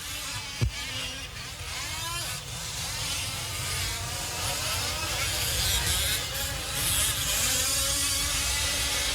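Several 1/5-scale RC trucks' small two-stroke petrol engines buzzing and revving up and down as they race, their pitches rising and falling over one another. A single thump comes less than a second in.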